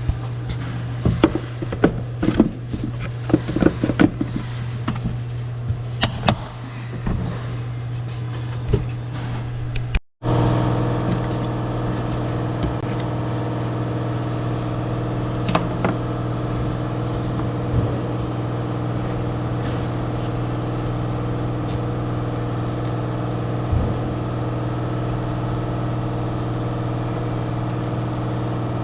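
Clicks and knocks of parts being handled over a steady low hum for about the first ten seconds. Then the Yamaha G29 golf cart's gas engine runs at a steady idle.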